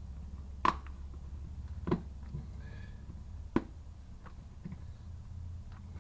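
Three sharp knocks, each a second or more apart, with a few fainter ticks, as objects are handled against hard surfaces, over a steady low hum.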